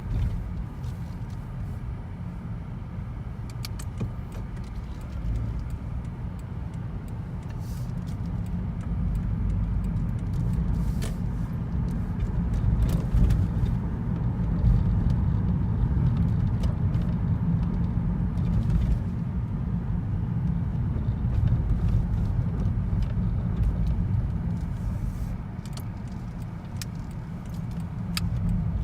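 Steady low road and engine rumble inside a moving car's cabin, rising and falling gently in loudness, with a few faint light clicks and rattles.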